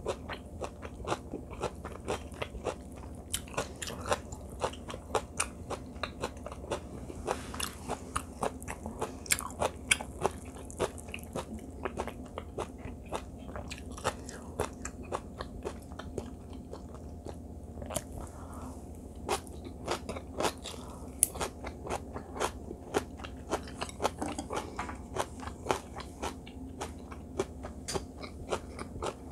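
Close-miked chewing and crunching of rice with seasoned greens (perilla-sprout and butterbur namul): a dense run of small crunches, several a second, over a steady low hum.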